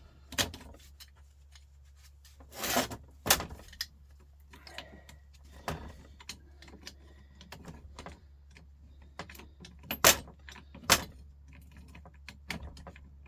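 Metal tools and parts clinking and knocking while bolts are worked loose on a Volvo truck starter motor being torn down. The clinks are scattered and sharp, with a cluster about three seconds in and two louder knocks around ten and eleven seconds, over a low steady hum.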